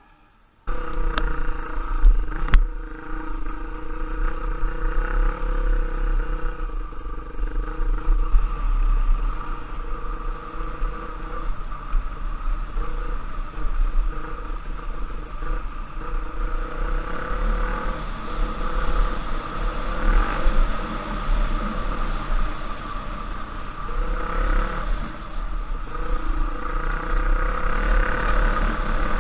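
Off-road motorcycle engine running as the bike is ridden, its pitch wavering with the throttle, over a heavy low rumble and rattle, with two sharp knocks early on. It starts abruptly about half a second in.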